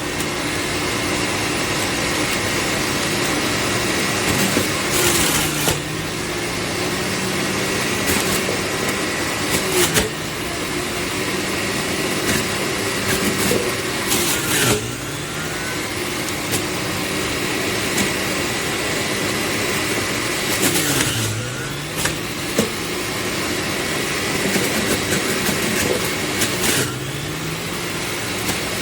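Electric centrifugal juicer's 400W motor running steadily. Four times its pitch drops briefly as it labours under load, then recovers, with a few short clattering knocks in between.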